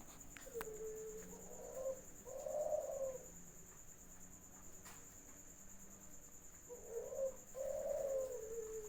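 A dove cooing, two repeated coo phrases about four seconds apart, each a few low notes ending in a longer falling coo.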